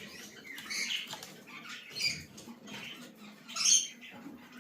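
Blue-and-gold macaw making short, high squeaky calls, three or so, the loudest about three and a half seconds in.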